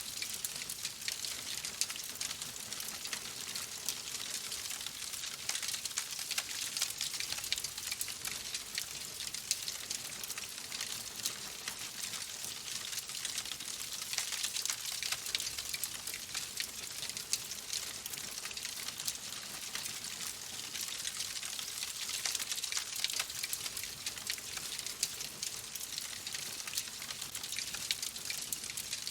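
Wood fire in a fireplace crackling steadily: a dense, continuous run of small pops and snaps over a soft hiss.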